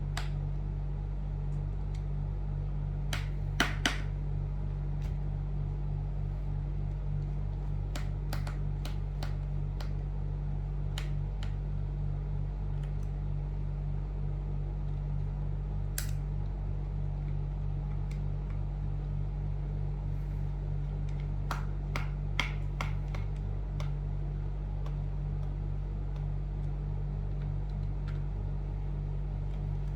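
Scattered small clicks and taps of hands and a tool working the hard drive connector loose inside an opened 2010 MacBook, including a sharp double click a few seconds in, over a steady low electrical hum.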